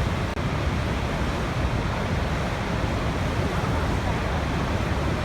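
Waterfall: a steady, dense rush of falling water, heaviest in the low rumble.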